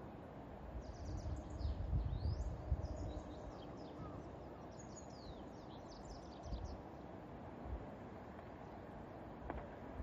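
Small birds chirping in a flurry of short, high, falling notes for the first six seconds or so, over a low outdoor background with a few low rumbles.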